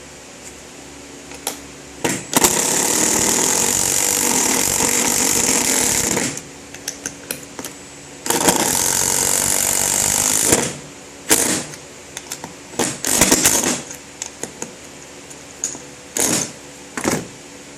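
Handheld power drill running under load in two long bursts, of about four and two seconds, then a string of short trigger blips, driving into wood.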